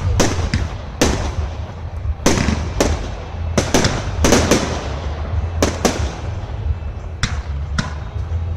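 Fireworks bursting overhead: a rapid, irregular run of sharp bangs and crackles, each with a short echoing tail, over a steady low rumble.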